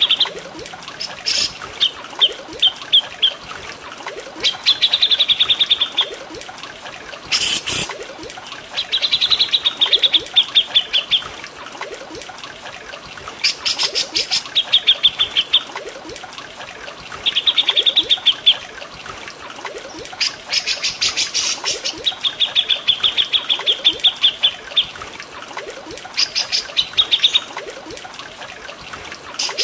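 Songbirds sing in a masteran recording of cucak jenggot and cililin: fast trilled phrases of one to two seconds repeat every few seconds, with short sharp calls in between. A steady trickle of water runs underneath.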